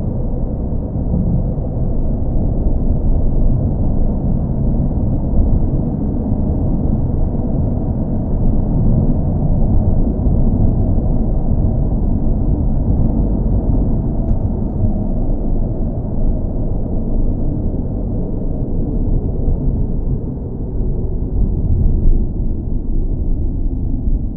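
Car engine and running noise as a steady, deep rumbling drone that swells and eases slightly in level.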